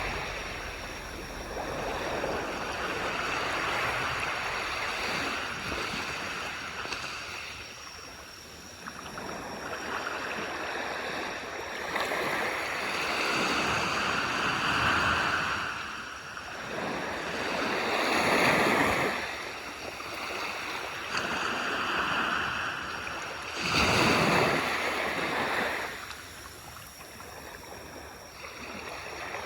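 Small waves breaking and washing up on a beach, each surge swelling and fading every few seconds, the strongest at about 18 and 24 seconds in.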